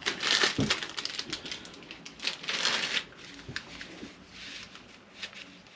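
Crinkling and rustling of a plastic baby-wipes packet being handled and wipes pulled out, busiest in the first three seconds, with a dull thump about half a second in and quieter rustling after.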